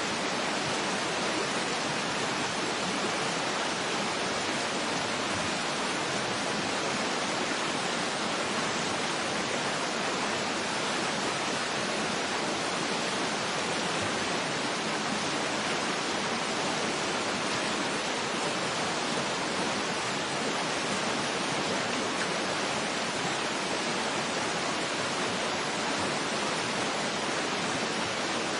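Steady rushing of a waterfall: an even, unbroken hiss of falling water that holds constant throughout, with little deep rumble beneath it.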